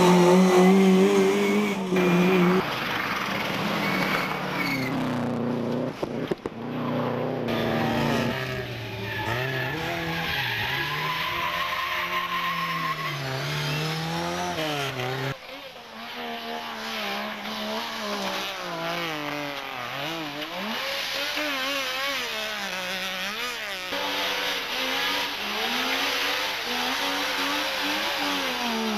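Rally car engines at full stage speed, revving hard and dropping back through gear changes and lifts, one car after another with abrupt switches between them.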